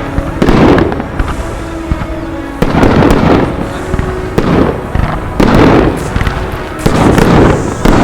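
Consumer aerial firework cake firing: loud shell bursts about every one to two seconds, five or so in all, with crackling between them.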